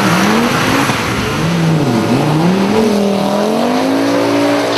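Drag-racing car engine revving hard. Its pitch climbs, drops sharply about two seconds in, then climbs steadily again.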